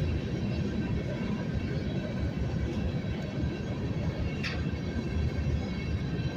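Union Pacific local freight train rolling slowly past, a steady rumble of wheels on rail, with a brief high squeal about four and a half seconds in.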